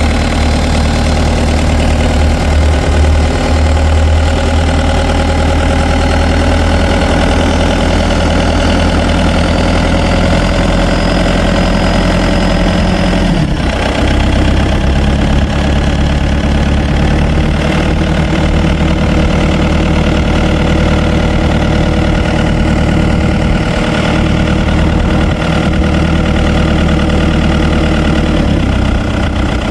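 New Holland TN90F tractor's diesel engine running steadily at low revs, with a brief dip in the engine note about halfway through.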